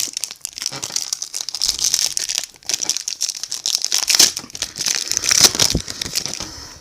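Crinkling and rustling of a foil trading-card pack wrapper as it is handled and pulled open, with irregular crackles throughout.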